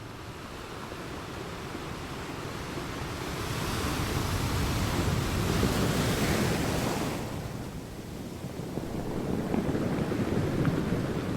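Ocean surf: a wave builds and breaks with a rush of hiss, peaking about six seconds in and washing back, then the next wave swells near the end.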